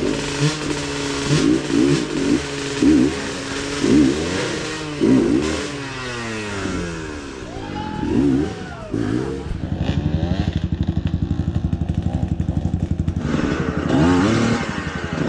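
Off-road motorcycle engines revving in short throttle blips about once a second, then falling away. Later one engine runs steadily at low revs with a fast even beat, and there is more revving near the end.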